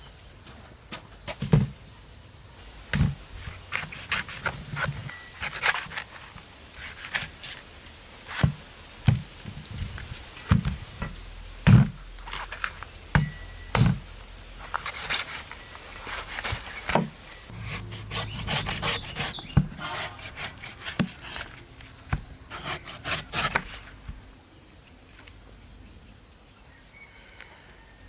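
Irregular knocks and scraping on wood, about one to three a second, stopping about 24 seconds in. Insects chirr steadily in the background.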